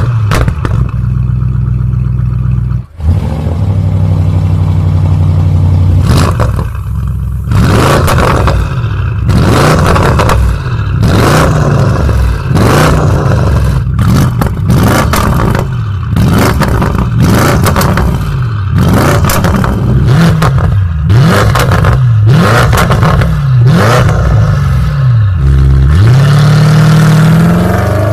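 Mansory-tuned Audi RS7's twin-turbo 4.0-litre V8 running, first at a steady idle, then revved over and over, its pitch rising and falling every second or two. Sharp pops and crackles come between the revs, and a longer rev climbs near the end.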